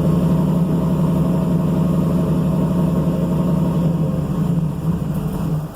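Newly installed crate engine running steadily on its first fire, then cutting off right at the end.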